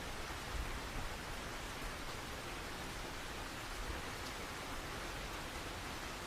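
Steady rain falling, an even hiss without a clap of thunder.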